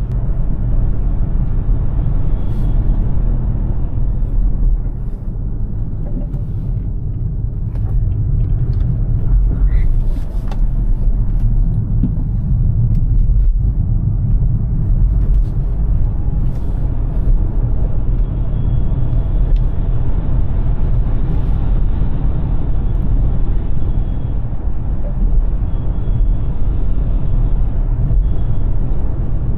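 Road and tyre noise from a Smart #3 electric car on the move: a steady low rumble with no engine note.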